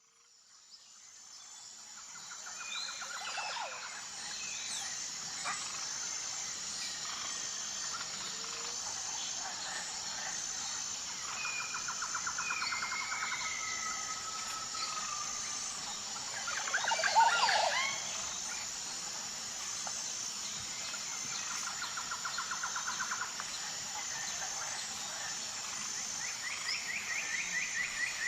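Natural outdoor ambience: a steady, high insect chorus underneath repeated bird trills and whistled calls, with the loudest burst of calls about 17 seconds in. It fades in at the start.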